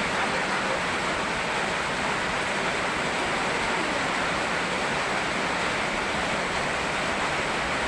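Rain and a flowing river together, a steady even rush of water with no separate events.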